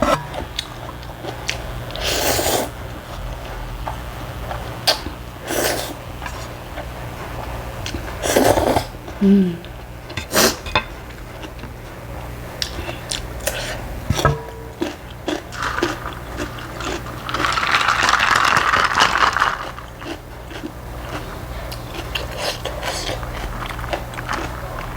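Close-up mukbang eating of spicy ramyun: slurping noodles and chewing, with utensils clicking against the bowl now and then, and one longer slurp later on. A steady low hum runs underneath.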